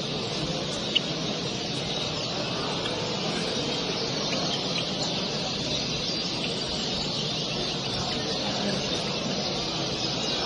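Many caged songbirds chirping and singing at once, a dense steady chorus over a low background din, with one brief sharp click about a second in.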